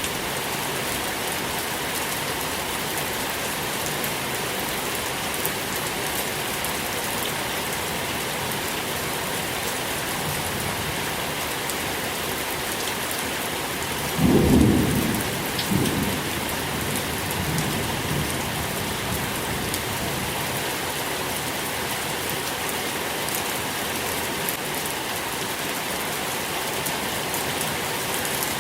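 Steady rain falling, with a low rumble of thunder about halfway through that swells twice and fades over a few seconds.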